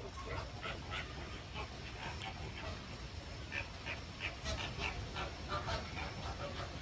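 Peafowl feeding: many short, high calls and a few sharp clicks, coming thick and irregular, over a low steady rumble.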